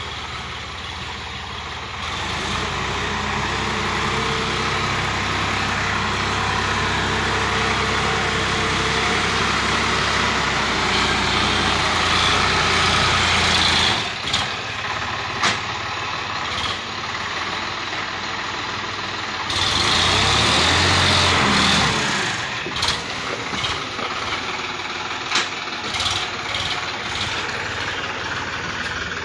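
Sonalika Supreme DI 50 RX tractor's diesel engine running. It picks up about two seconds in and holds high until about halfway, then drops back. It surges again briefly later, and a few sharp knocks sound near the end.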